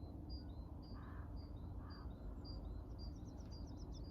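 Birdsong: one bird repeats a high two-note call, the second note lower, about twice a second, and breaks into a quick run of short rising notes near the end. Two short, harsher calls sound about one and two seconds in, over a steady low background hum.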